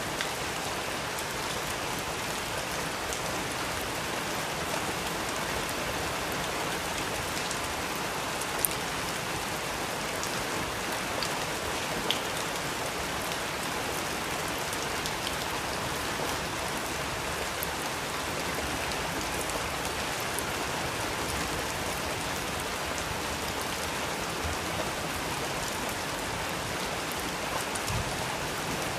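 Steady rain falling on a surface, an even hiss with a few sharp ticks of individual drops standing out.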